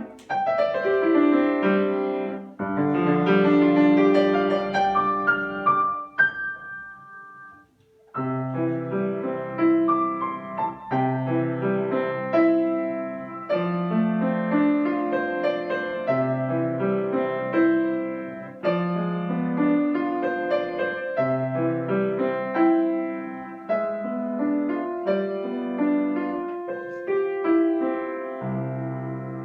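Solo piano playing a children's piece: a phrase that dies away about six seconds in, a short pause, then steady playing over repeated low bass notes.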